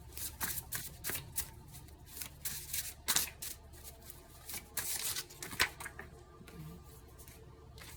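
A deck of oracle cards being shuffled by hand: a quick run of soft card flicks and rustles that thins out after about six seconds.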